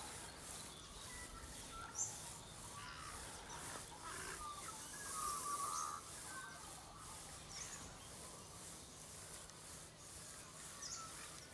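Faint outdoor bird calls: scattered short chirps and twitters over a low, steady background hum.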